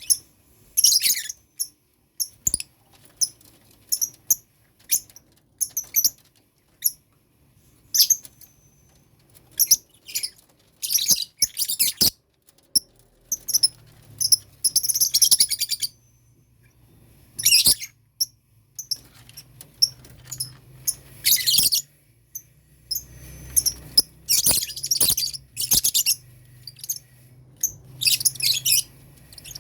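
Lovebirds in a colony cage chirping in short, high-pitched bursts, some single and some in rapid clusters. A low steady hum joins about halfway through.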